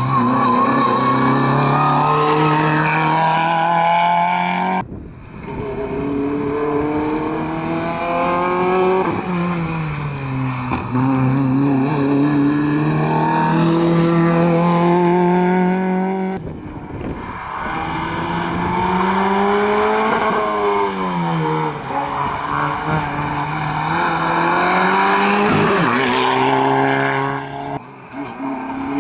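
Rally cars at full attack on a stage, engines revving hard and dropping back as they shift gears and brake for corners. The sound breaks off abruptly twice, about 5 and 16 seconds in, as one car's run gives way to the next.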